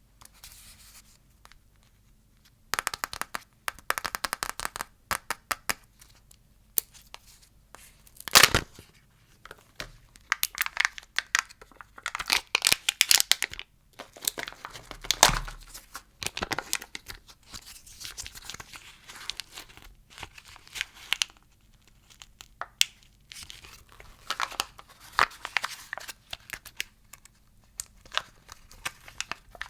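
Plastic candy wrappers crinkling and tearing as lollipops are unwrapped by hand, in on-and-off bursts of crackling with a couple of sharper snaps.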